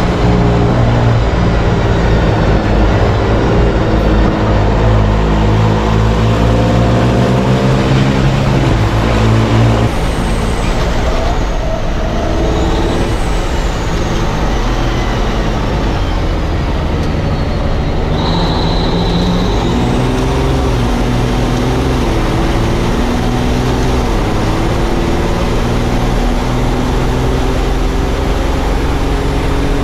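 Racing truck engine running hard under load, its pitch climbing and then dropping back several times as it goes through the gears. A faint high whistle falls in pitch in the middle.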